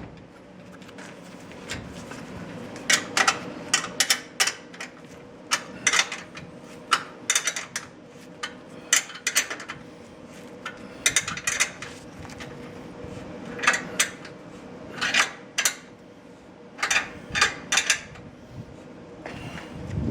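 Repeated sharp metallic clicks and taps, often in quick clusters of two or three, from hand tools and garage door hardware being handled and fitted.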